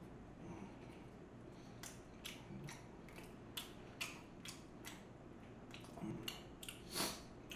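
Close-miked chewing of a spoonful of omurice: a string of soft, irregular wet mouth clicks and smacks, the loudest near the end.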